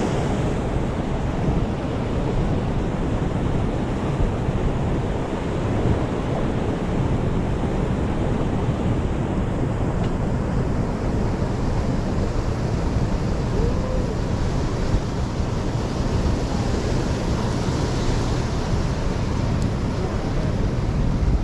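Steady rushing of a mountain stream, mixed with wind buffeting the microphone: a continuous, even noise strongest in the low end.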